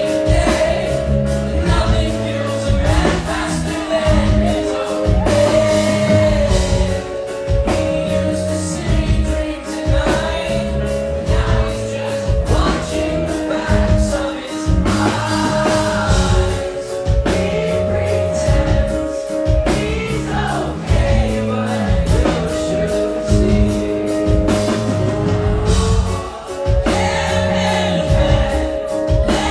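Live song: a man singing over piano, with a regular pulsing beat in the low end.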